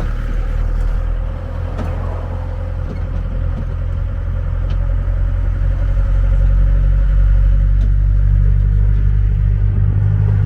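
A road vehicle's engine running with a steady low drone, growing louder about six seconds in.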